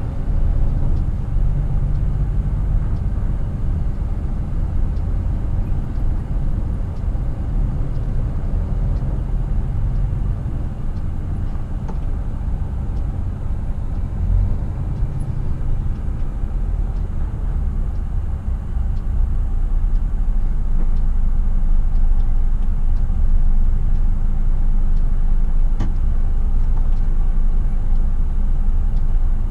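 Scania R450 truck's 13-litre inline-six diesel running under way, heard from inside the cab as a steady low rumble with road noise. It gets a little louder about two-thirds of the way through.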